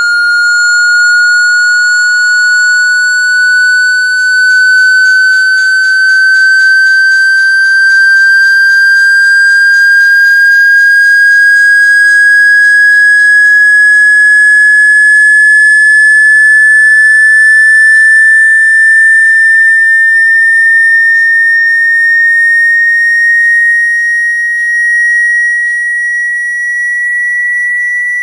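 Steady electronic sine tone gliding slowly upward in pitch, a speaker-cleaning tone played to vibrate water out of a phone's speaker.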